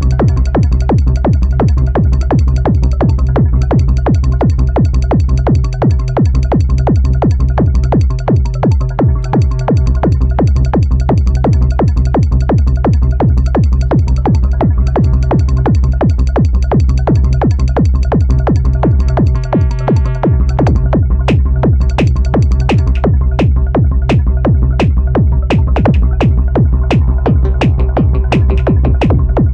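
Electronic music played live on a Korg Electribe 2 groovebox: a heavy sustained bass under held synth tones and fast drum-machine percussion. About twenty seconds in, a quick drum roll plays and the highest layer drops out.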